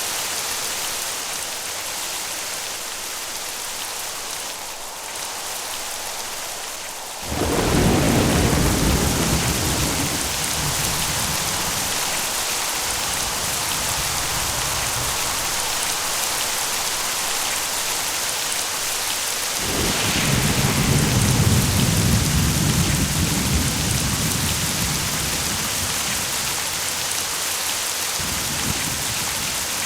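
Steady rain falling, with thunder: a sudden loud rumble about seven seconds in that rolls on and fades over several seconds, and a second long rumble starting about twenty seconds in.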